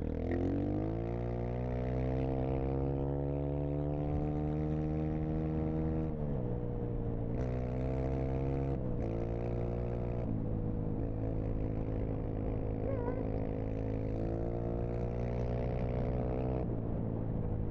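Dirt bike engine running under way. Its pitch rises over the first couple of seconds, then holds steady, dropping about six, ten and seventeen seconds in.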